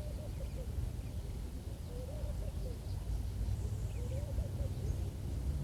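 Wind blowing through reeds and rumbling on the microphone, with short low warbling sounds coming a few times.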